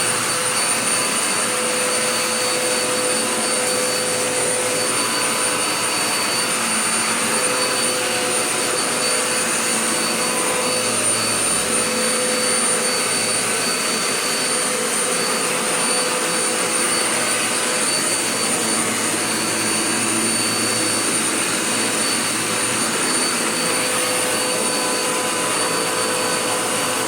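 Dirt Devil Power Max upright vacuum cleaner running steadily, its motor giving a constant high whine over a dense airflow rush.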